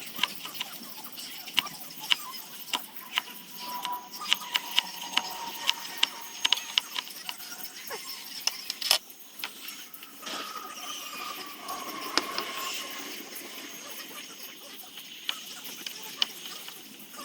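Irregular sharp clicks and snaps of hand carving on wood, a few a second, one louder snap about nine seconds in. A faint wavering whine sits in the background.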